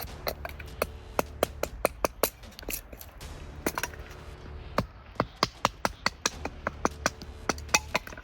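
A quick series of sharp wooden knocks and cracks, about three a second with a short pause near the middle: dry wood being split into small pieces of kindling.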